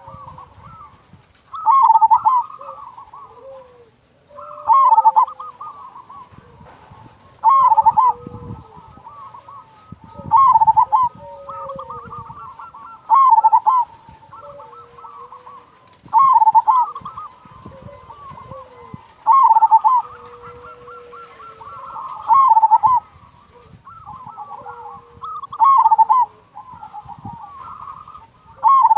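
Zebra dove (perkutut) cooing in repeated phrases, a loud trilled phrase about every three seconds, with softer, lower drawn-out coos between them.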